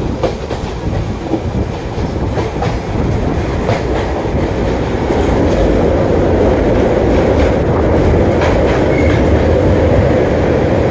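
Passenger train running over a steel truss bridge, heard from an open coach doorway: a loud, steady rumble with wheels clacking over rail joints. It grows louder from about halfway through.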